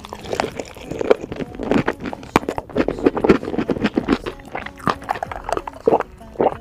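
Close-miked chewing of sauced fried chicken with melted cheese: wet, smacking mouth sounds with many sharp clicks. About six seconds in, a sip and swallow from a glass of drink.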